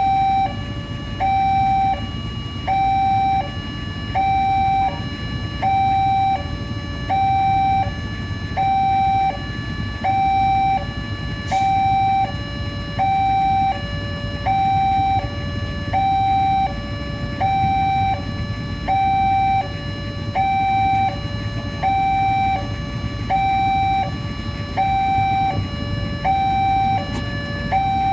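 Railway level crossing's electronic warning alarm, alternating steadily between a higher and a lower tone, one high-low cycle about every second and a half, over a low rumble. It signals that a train is approaching the crossing.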